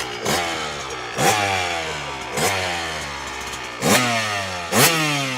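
1994 Kawasaki KDX 250R's single-cylinder two-stroke engine revved in five sharp throttle blips, each rising quickly and then winding slowly back down.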